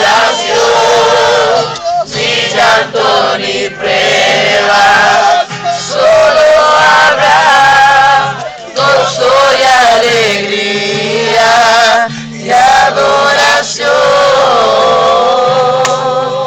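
Group of young people singing a Spanish-language worship song together, over a steady low accompaniment that changes note in blocks.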